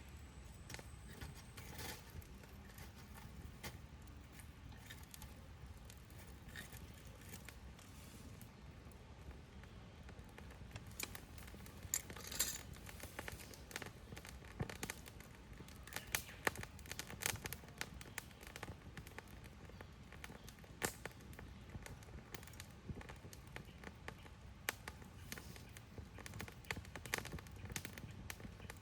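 Wood campfire crackling, with irregular sharp pops and snaps over a low steady rumble. The pops grow more frequent and louder about a third of the way in.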